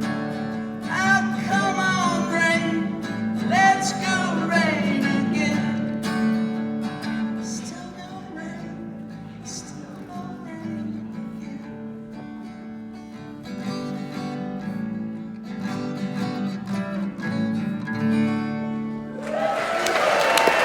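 Live solo song's closing bars: guitar with wordless singing at first, thinning to quieter held guitar notes in the middle, then building again before the final chord. An audience starts applauding near the end.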